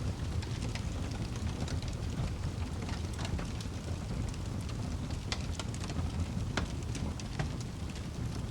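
Wood fire burning in a fireplace: a steady low roar of flames with frequent sharp crackles and pops from the burning logs.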